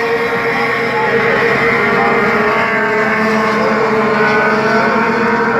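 Truck engine running at steady, high revs, loud throughout.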